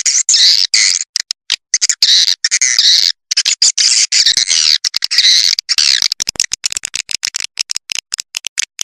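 Recorded swiftlet calls played as a lure for swiftlets: dense, high twittering chirps broken by short gaps, turning into a fast run of short clicks in the last few seconds.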